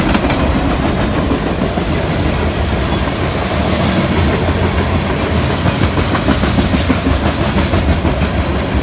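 Freight cars of a passing train rolling by at speed: a steady rumble of steel wheels on rail with a clickety-clack of wheels crossing rail joints, which grows into a sharper, regular beat in the second half.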